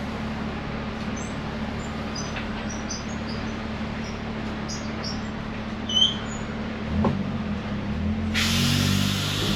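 Heritage tram at a stop, heard from inside: a steady low hum with faint high chirps, a knock about seven seconds in as a deeper drone sets in, then a loud burst of air hiss near the end, typical of the tram's air brakes releasing.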